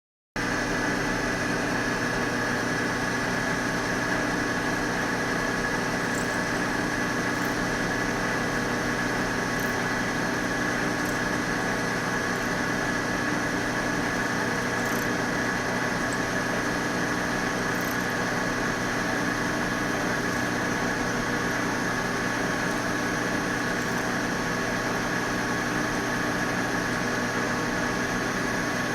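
Vertical milling machine running at a steady speed: a constant motor hum with a high whine over it.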